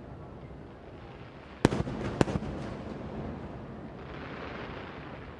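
Aerial fireworks shells bursting over a low, continuous rumble: sharp bangs about a second and a half in, another about half a second later, then a few weaker pops with echo.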